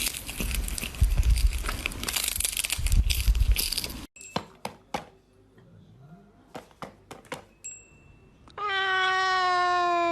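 Rough crackling, rustling noise for about four seconds, then a few faint clicks, and near the end a cat's long meow that holds steady and then drops in pitch.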